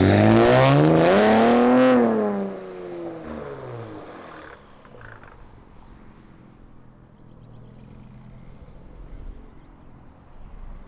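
Infiniti Q60's twin-turbo VR30 V6, fitted with lower downpipes and a 2.5-inch catback exhaust, revved once: the exhaust note climbs for about two seconds, falls back over the next two, and the engine settles into a quiet idle.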